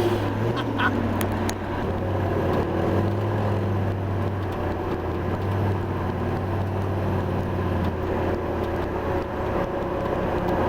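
A vehicle engine running at a steady idle or low, even speed, a constant low drone with a few faint clicks in the first second or so.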